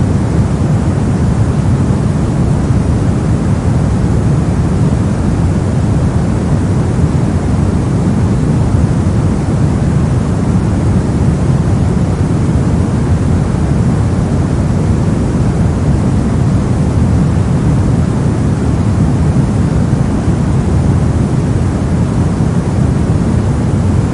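Soft noise: a steady, even hiss weighted toward the deep end, with no change, rhythm or pitch.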